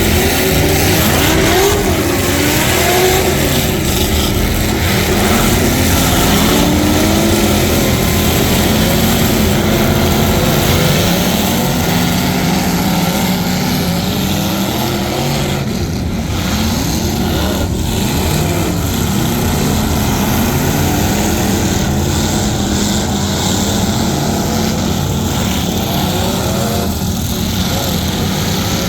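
Truck engines running loud, their revs rising and falling again and again.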